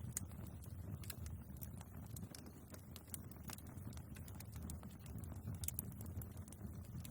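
Wood fire burning in a fireplace: irregular sharp crackles and pops of the logs over a low, steady rumble of the flames.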